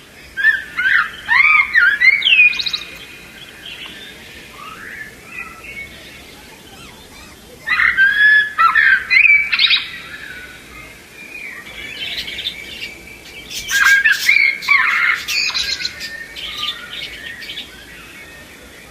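Baby budgerigars chattering and squawking in warbling bursts of calls, with quieter pauses between the bursts.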